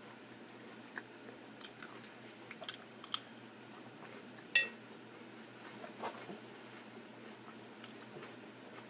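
Close-miked chewing of food, with small crunches and wet mouth clicks. One sharp, louder click with a brief ring about halfway through.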